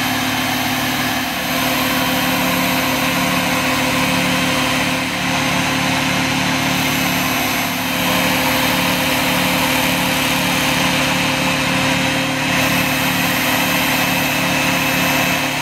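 Work Sharp Ken Onion Edition belt sharpener's electric motor running steadily with a fine polishing belt, a kitchen knife blade being drawn across the belt to hone the edge.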